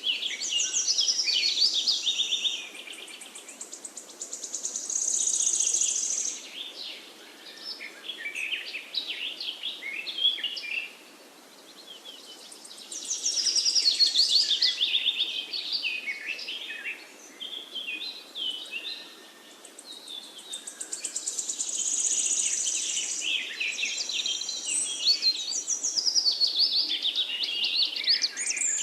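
Songbirds singing: bouts of rapid chirps and trills, each a few seconds long, with short lulls between them.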